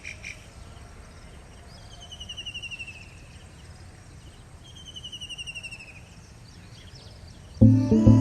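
A small bird sings two descending trills of rapid repeated notes, each about a second and a half long, over a faint steady outdoor background. Near the end, music with a steady beat comes in loudly.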